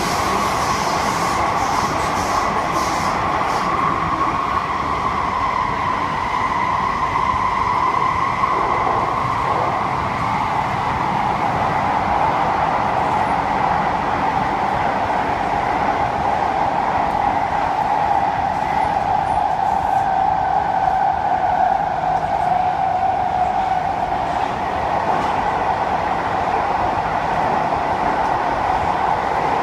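Inside a moving SMRT C151A metro train: steady rumble of the running train with an electric motor whine that slowly drops in pitch, then rises slightly near the end.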